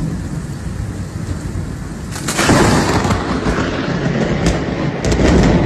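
Rainstorm: a steady noise of heavy rain with a low rumble underneath. It swells louder a little over two seconds in, then cuts off suddenly at the end.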